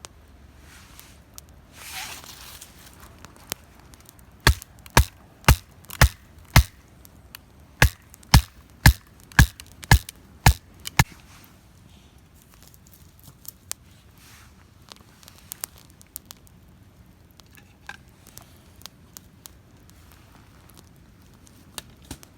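Firewood being chopped with sharp, loud blows, about two a second, in two runs of five and six strikes. A short hiss about two seconds in.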